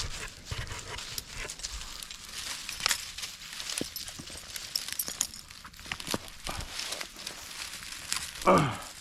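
Irregular rustling and scraping with scattered sharp clicks and knocks, then a short falling vocal sound near the end.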